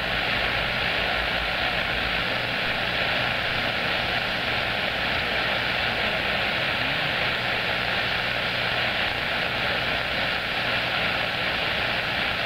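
CB radio receiver on an open channel giving a steady band of static hiss, with a low hum underneath and no station coming through.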